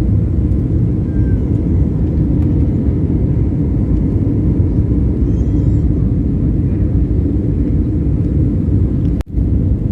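Steady low rumble of a jet airliner heard from inside the cabin: engine and airflow noise. It drops out for an instant near the end.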